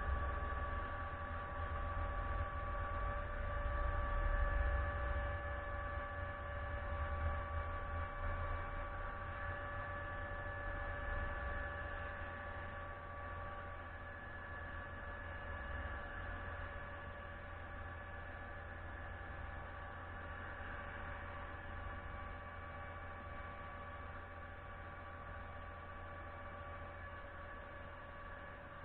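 Concrete pump truck machinery running steadily: a low rumble with a steady whine over it, slowly getting quieter.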